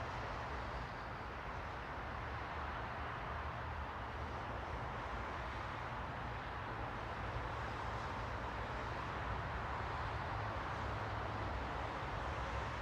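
Steady, even rushing noise with a low rumble underneath and no distinct events.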